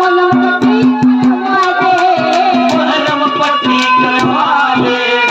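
Harmonium playing a melody over steady held notes, with a hand drum beating out a brisk rhythm: ragni folk music accompaniment.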